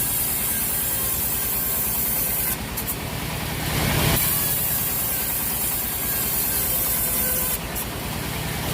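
Sawmill machinery running with a steady, pulsing engine drone. It swells louder once about halfway through, and there are short hissing bursts at about 2.5 s and again near the end.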